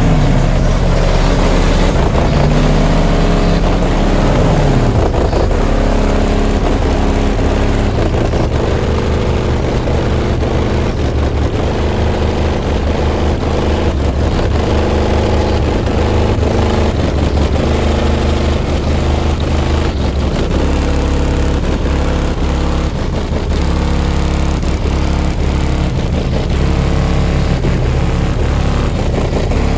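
Bass-heavy music played loud through four Resilient Sound Platinum 18-inch subwoofers in a sixth-order bandpass wall box, driven by two Taramps 8K amplifiers. The deep bass is dominant, with gliding bass notes in the first few seconds.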